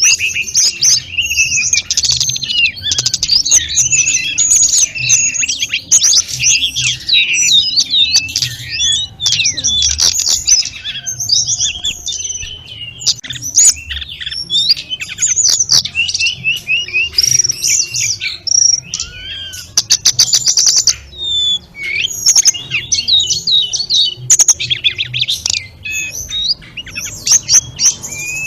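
A tledekan gunung (sulingan gunung) songbird singing a full, varied song: fast runs of high chirps, trills and gliding whistles, with brief pauses.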